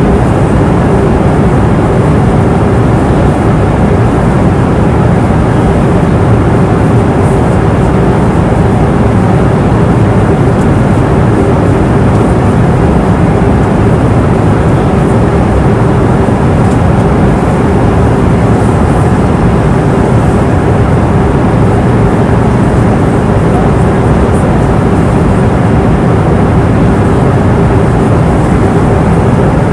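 Steady roar of an airliner's cabin in cruise flight: engine and airflow noise, low and even, with a faint steady hum.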